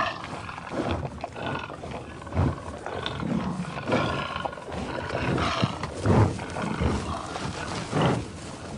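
A big cat growling and roaring in a run of rough calls at irregular intervals, given as the sound of a leopard.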